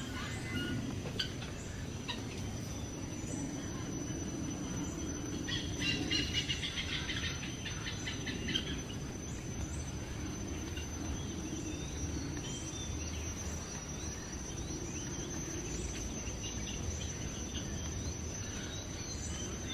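A steady high-pitched insect drone throughout, with a bird giving a rapid series of repeated calls about six to eight seconds in, over a low background rumble.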